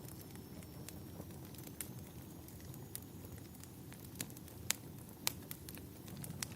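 Wood fire burning in a fireplace, crackling with scattered sharp pops, the loudest two a little past the middle, over a low steady rumble.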